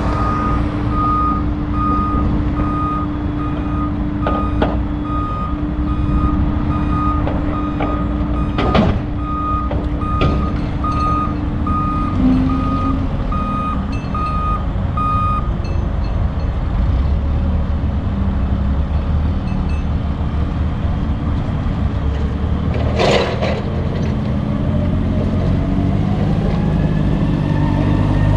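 A vehicle reversing alarm beeping steadily, about two beeps a second, over a diesel engine running; the beeping stops about halfway through. Two short sharp noises cut through, and near the end an engine rises in pitch.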